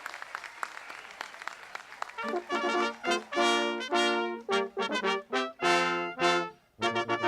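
Applause thinning out, then a brass ensemble of trumpets and trombones starts playing about two seconds in, in short detached notes and a few held ones: the recessional music as the commencement ceremony closes.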